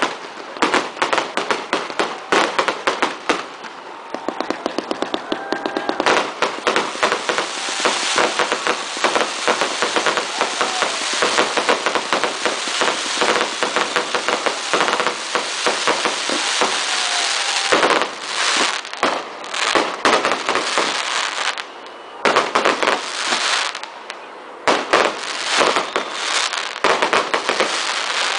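Strings of firecrackers going off in rapid, dense succession, a long unbroken rattle of bangs with a couple of brief pauses near the end.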